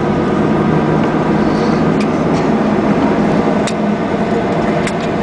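Steady hum and rumble inside an airliner's cabin as it taxis after landing, the jet engines running at low power, with a few small clicks.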